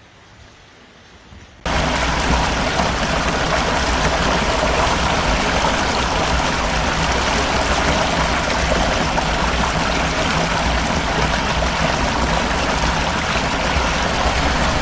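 Floodwater rushing: a loud, steady rush of water that cuts in suddenly about two seconds in, after a faint, quiet stretch.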